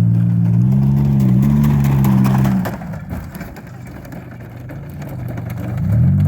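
Straight-piped Buick 3.1 V6, with no muffler or catalytic converter, running loud at high revs. The throttle drops off about two and a half seconds in, and the engine falls to a quieter run before revving up again near the end.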